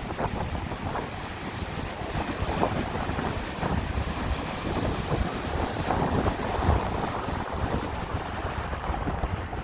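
Ocean surf washing ashore, with wind buffeting the microphone in a constant low rumble.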